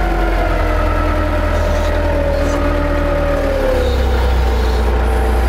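Forklift truck running while manoeuvring with a lifted load: a steady motor hum with a whine that slowly drops in pitch over the first few seconds, and a shift in the low hum about four seconds in.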